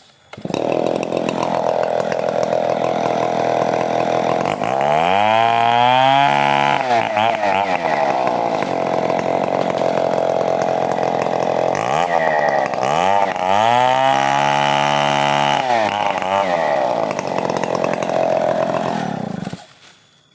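Stihl 070 two-stroke chainsaw running hard. Its engine pitch sags and recovers twice as the chain loads up in the cut of a young coconut trunk, and it cuts off abruptly near the end.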